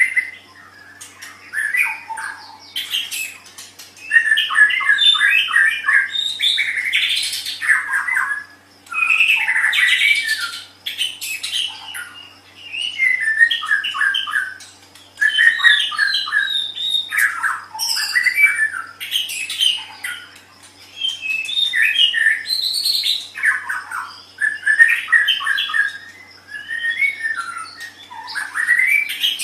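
White-rumped shama singing: a run of varied phrases full of fast trills and rapidly repeated notes, coming in bursts of a few seconds with short pauses between them.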